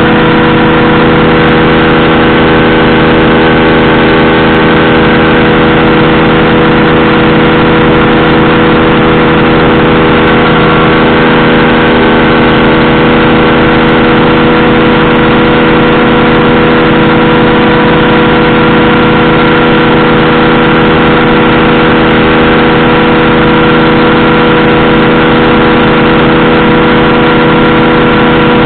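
Powered parachute's engine and pusher propeller running loud and close, holding one steady pitch throughout.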